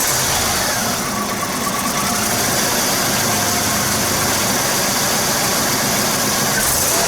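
GM 3800 V6 engine idling steadily.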